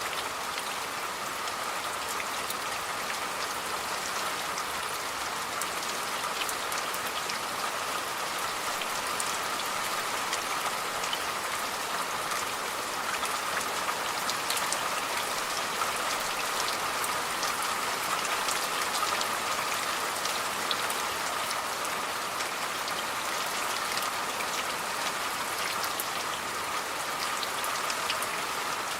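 Steady rain, with many separate drops ticking sharply on a surface over an even hiss.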